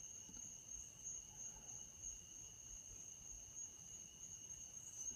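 Faint, steady trilling of crickets: an unbroken high tone with a higher one above it.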